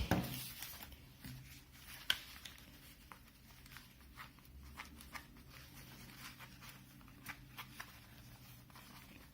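Faint rubbing and scattered small clicks of hands working a replacement ear pad's lip over a Beyerdynamic DT 770 headphone cup, with one sharper click about two seconds in.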